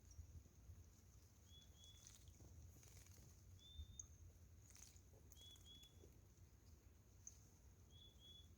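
Faint splashing and fluttering of a saffron finch bathing in water, heard as scattered light clicks. A short double chirp repeats about every two and a half seconds over a steady high-pitched whine.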